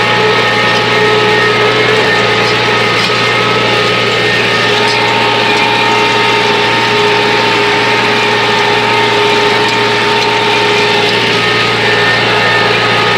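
Tractor engine running loud and steady at a constant speed, with a few held tones over a dense mechanical noise.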